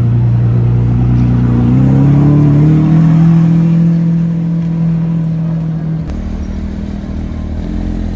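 Lamborghini Aventador's V12 engine pulling away at low revs, its note stepping up in pitch twice in the first few seconds and then holding steady. About six seconds in, the sound cuts to a lower, quieter engine rumble.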